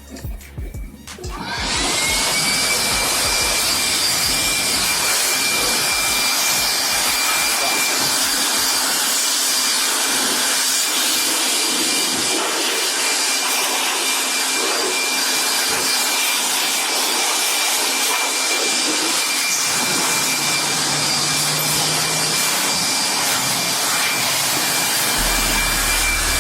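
Pressure washer starting up about two seconds in: a rising whine that settles into a steady high tone over a loud, even spray hiss, then running steadily while the engine bay is rinsed.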